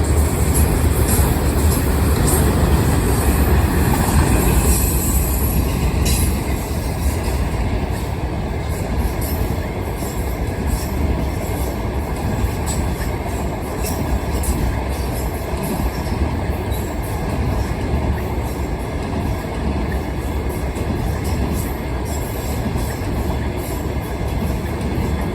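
Norfolk Southern freight train rolling past at close range: a steady rumble of railcars with wheels clicking over the rail joints. A high wheel squeal sounds near the start.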